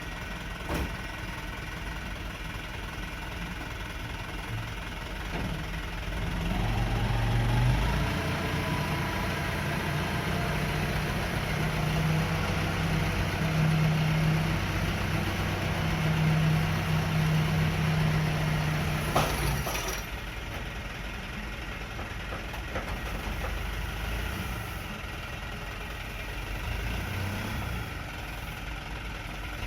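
Diesel dump truck engine running, growing louder from about six seconds in with a rising whine as it pulls under load, then dropping back to a lower, steady running sound after a brief sharp noise about two-thirds of the way through.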